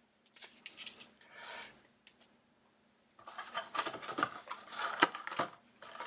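Trading cards and plastic card holders being handled: light clicks and scrapes, then from about three seconds in a denser run of rustling and scraping with sharp clicks, as pieces that stick together are pulled apart.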